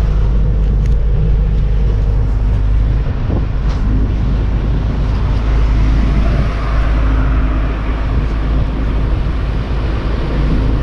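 Steady, loud low rumble of a motor vehicle's engine running, with road or traffic noise.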